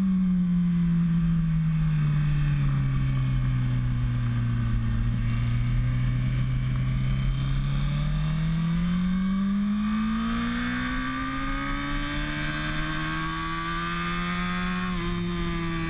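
Motorcycle engine running hard on a racetrack: its note falls over the first few seconds as the bike slows, holds low for a few seconds, then climbs steadily under acceleration from about eight seconds in, with a brief dip near the end.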